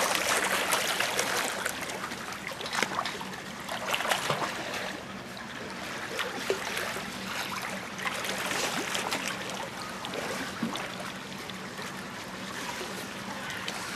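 Water running and trickling steadily, with small scattered splashes.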